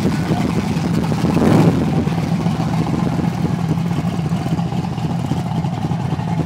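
Chevrolet Monte Carlo SS V8 engine running as the car rolls slowly, getting briefly louder in a short rev about a second and a half in.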